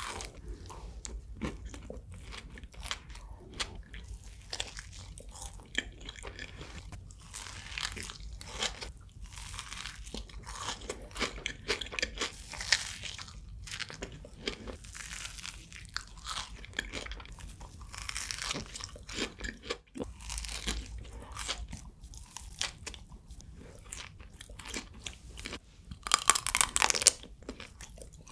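Close-miked eating of sweets: repeated bites and chewing with crisp crunching and wet mouth clicks, growing louder and denser near the end.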